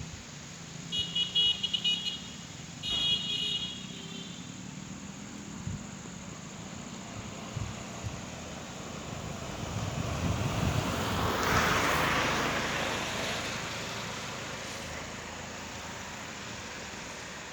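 A vehicle passing by, its noise building to a peak about twelve seconds in and then slowly fading. Near the start there are two short bursts of high, rapidly pulsing tones.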